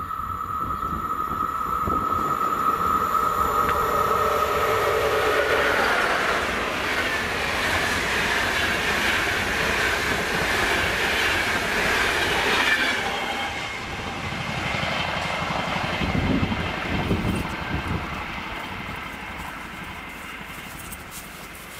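A train passing along the line: a steady high whine for the first few seconds, then the rush of the train building to its loudest in the middle and fading away toward the end.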